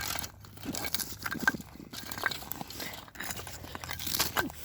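Irregular crunching and scraping of feet and soil on the ground as a campfire's embers are stamped and covered over to smother them.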